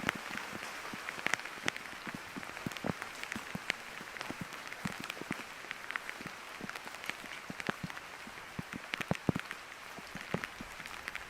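Rain falling steadily, a constant hiss with many irregular sharp taps of drops landing close by.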